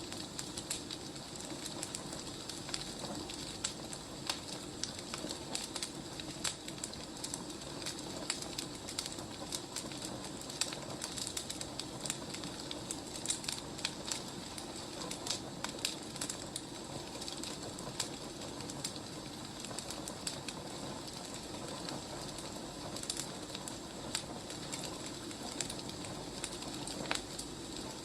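Wood fire crackling: a steady low rush with many small, irregular pops and snaps.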